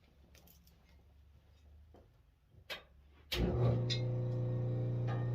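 A few faint clicks and a sharper tick of handling, then about three seconds in an RBG-712 lawn mower blade sharpener's grinding motor switches on with a thump and runs up to a steady, loud hum.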